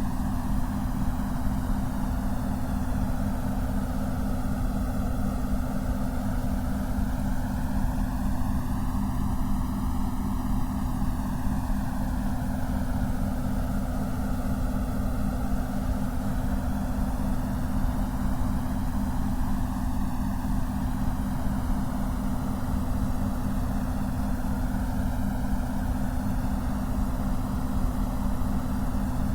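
Synthetic white noise for focus listening: a steady hiss that slowly swirls and whooshes as its colour sweeps up and down every several seconds, over a steady low hum of a few close tones.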